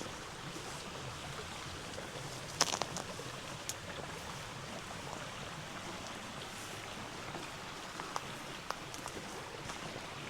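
Steady rush of a river's flowing water, with scattered sharp clicks and taps; the loudest cluster comes about two and a half seconds in.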